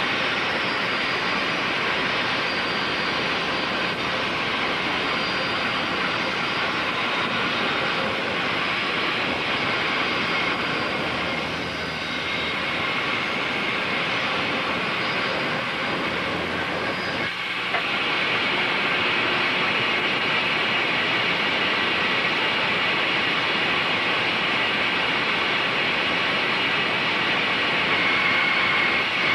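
Woodworking bandsaw running steadily. There is a short break about 17 seconds in, and the sound is a little brighter afterwards.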